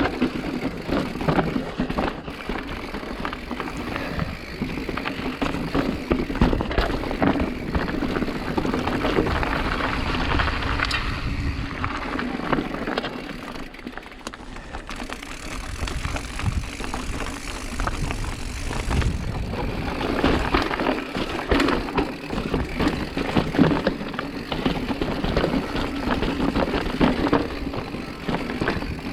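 Mountain bike rolling over a rough trail, its frame and parts rattling and clicking continuously over the noise of the tyres.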